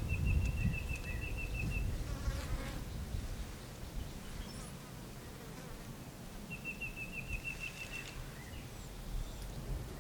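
A high, rapid trill of about ten quick notes, heard twice: once at the start and again about six and a half seconds in. A low rumble like wind on the microphone runs under it, strongest in the first few seconds.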